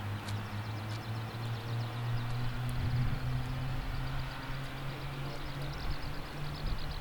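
AH-64D Apache attack helicopter running, a steady low hum that rises slightly in pitch about halfway through, with faint chirps high above it.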